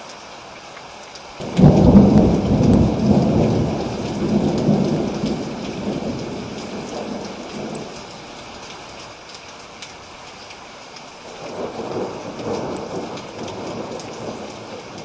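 Steady rain with a loud thunderclap about a second and a half in that rolls and rumbles away over several seconds, then a second, softer roll of thunder near the end.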